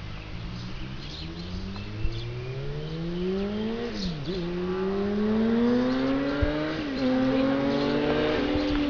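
Yamaha FZ6 motorcycle's inline-four engine through a Leo Vince aftermarket exhaust, accelerating as it approaches. The revs climb, drop at an upshift a little before halfway, and climb again, with a second shift later on. It grows steadily louder as it nears.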